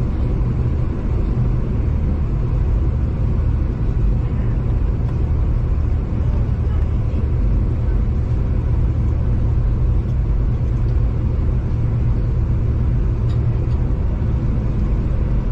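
V/Line passenger train running, a steady low rumble with a faint engine drone.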